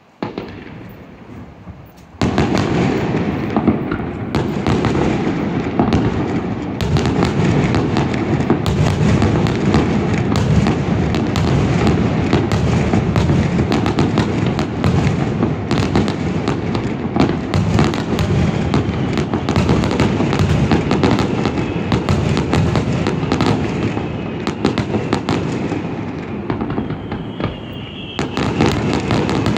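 Fireworks display: a dense, continuous barrage of shell bursts and crackling. It comes in faintly at first and turns loud about two seconds in, with a high whistle near the end.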